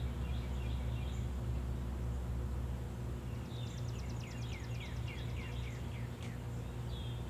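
A songbird singing a quick run of about eight descending chirps, starting about halfway in, over a steady low hum.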